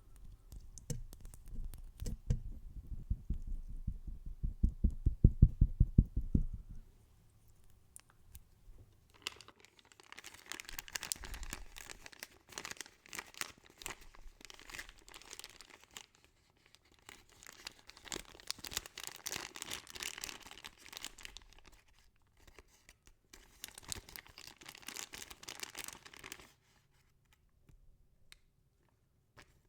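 Close-miked ASMR trigger sounds made by hand. First comes a quick run of muffled, bassy fingertip taps lasting several seconds. Then, after a short pause, several long stretches of crinkly rustling and scratching follow, stopping a few seconds before the end.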